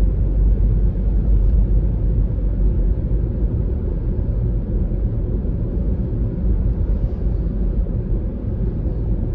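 Steady low rumble of road and engine noise from a Honda Freed minivan on the move, heard from inside the cabin.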